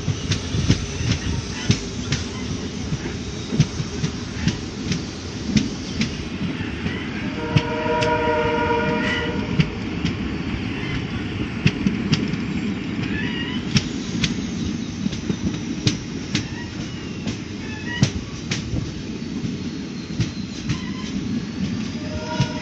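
Passenger express train running at speed, heard from inside a coach: a steady rumble of wheels on rail with irregular clickety-clack clicks over the rail joints. About seven seconds in, the locomotive's horn sounds once for about two seconds.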